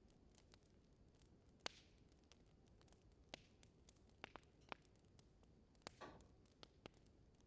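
Wood fire crackling in a fireplace: irregular sharp pops and snaps over a faint low hiss. The loudest snap comes a couple of seconds in, and one pop near the end trails a brief hiss.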